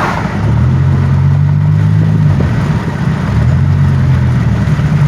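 2007 Pontiac Grand Prix GT's engine, heard from inside the cabin while driving, its pitch climbing and then dropping back twice, over steady road noise. The car runs smoothly again after a crank-no-start fault.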